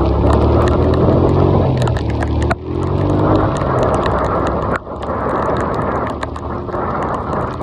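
Rain and water hitting a phone and its microphone: a loud, muffled rumble with a low hum under it and many small ticks of drops. The rumble dips briefly twice.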